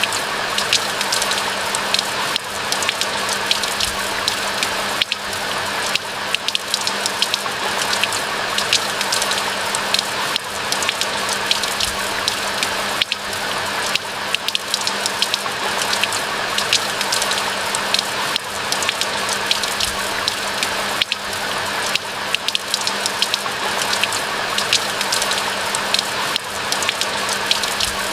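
Steady rain falling, a constant hiss dotted with many sharp close raindrop ticks.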